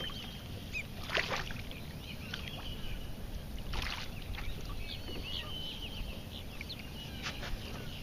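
Birds chirping repeatedly over a low steady rumble, with two short hissing bursts about a second in and near four seconds in.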